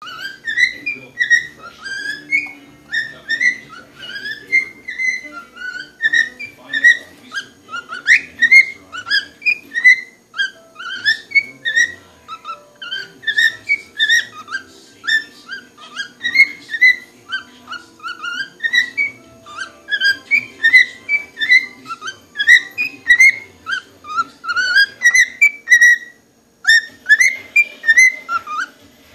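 Cockatiel whistling a long, busy run of short rising whistles, about two a second, with a brief pause near the end.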